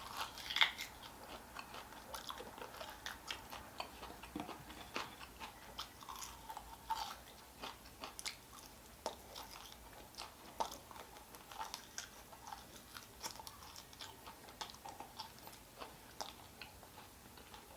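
A person chewing and biting food close to the microphone: soft, irregular wet clicks and small crunches with brief pauses.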